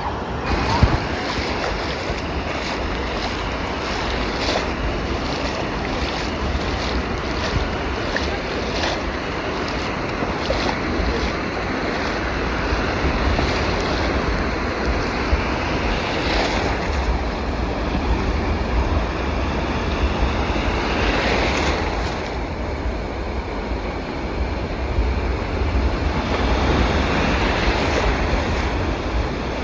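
Storm surf breaking on a beach in repeated surges, with wind buffeting the microphone as a steady low rumble.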